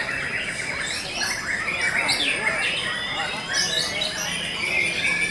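Several white-rumped shamas (murai batu) singing at once: dense, overlapping whistles, trills and chattering calls that run on without a break.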